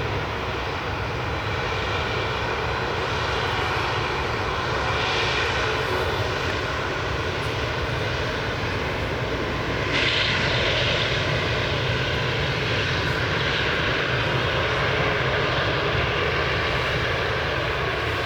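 Airliner engines running with a steady roar, growing a little louder about ten seconds in.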